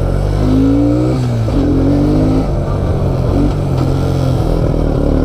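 ATV engine running under changing throttle, its pitch climbing and dropping several times as it is ridden.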